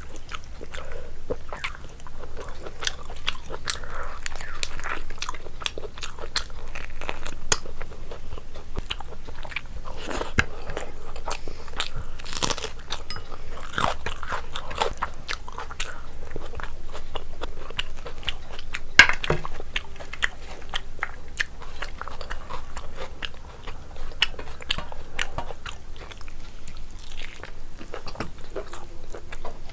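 Close-up eating sounds: a person chewing and biting through mouthfuls of biryani, with wet mouth smacks and scattered small crunches and clicks.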